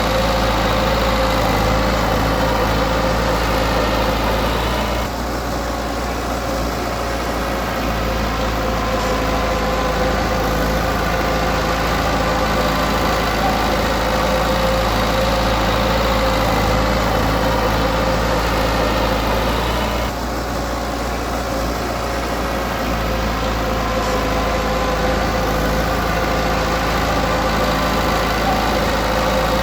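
Komatsu D20P bulldozer's diesel engine running steadily, easing off briefly about five seconds in and again about twenty seconds in.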